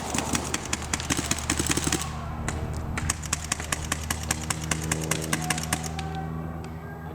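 Paintball markers firing: rapid popping shots, dense for the first two seconds, then thinning to scattered shots, over a steady low hum.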